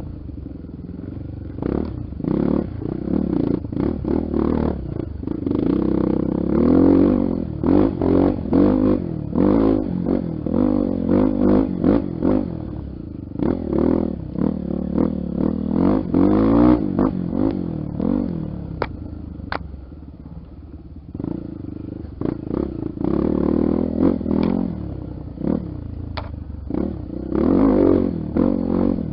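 Honda XR Tornado's single-cylinder four-stroke engine being ridden off-road, its revs rising and falling again and again, with frequent knocks and rattles; it eases off for a few seconds past the middle.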